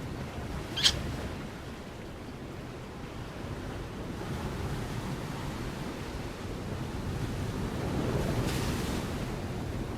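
Steady rushing noise, swelling slightly near the end, with one sharp click about a second in.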